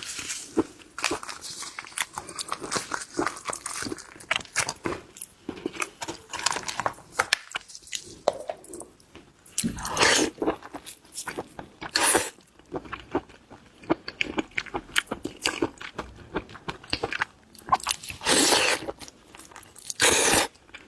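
Close-miked eating of red lobster: wet chewing with a dense run of small clicks, and a few louder crunches partway through and near the end.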